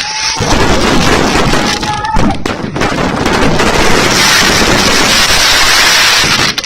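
Fireworks and firecrackers going off in a loud, continuous, overlapping crackle.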